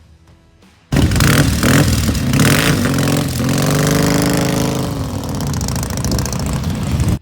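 A motorcycle engine running loud and being revved, its pitch rising and falling near the middle. It cuts in suddenly about a second in and stops abruptly.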